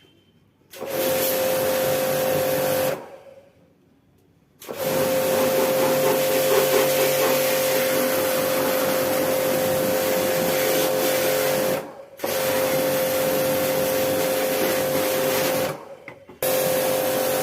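A small electric motor machine runs with a steady whine and hiss. It stops and starts again several times: a short gap near the start, a longer one of about two seconds early on, and brief drops about 12 and 16 seconds in.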